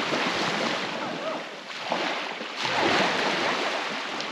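Steady rushing noise of surf and wind on the microphone, swelling about two and a half seconds in.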